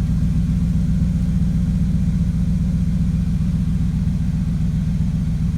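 2000 Dodge Ram 1500's 5.9 V8 idling steadily through an aftermarket Magnaflow exhaust with 4-inch tips, a deep, even rumble.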